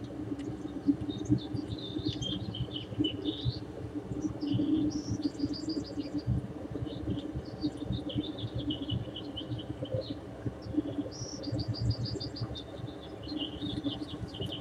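Small birds chirping and twittering in quick repeated trills, over a low, uneven background noise.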